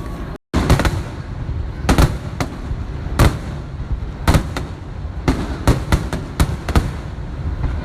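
Fireworks bursting: an irregular string of sharp bangs, coming faster in the second half, over a continuous low rumble.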